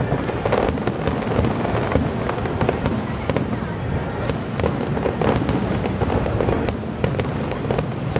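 Aerial fireworks shells bursting one after another in a dense, continuous run of booms, with many sharp cracks scattered throughout.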